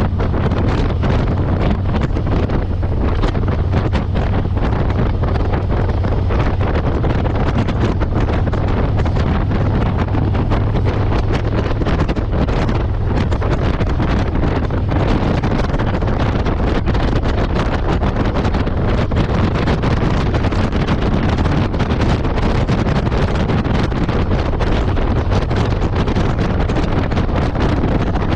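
Wind buffeting the microphone on a moving motorcycle, with the engine's low, steady drone underneath.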